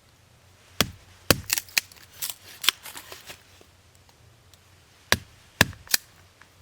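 Sharp wooden cracks and knocks, about eight in two bursts, as small fire-starting wood is broken up and readied.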